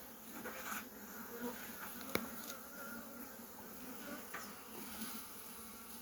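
Honeybees buzzing faintly around an opened hive, a wavering hum, with one sharp click about two seconds in.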